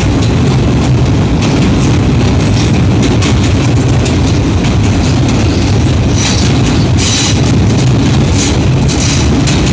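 Train running over a steel truss rail bridge: a loud, steady rumble of wheels on track, with runs of sharp clicks and rattles that are thickest about six to seven seconds in.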